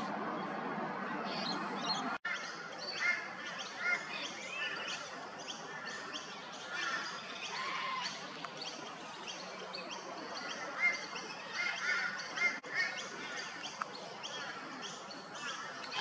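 Several birds chirping and calling, with many short, varied notes overlapping over a faint background hiss. The sound cuts out for an instant about two seconds in and again near twelve seconds.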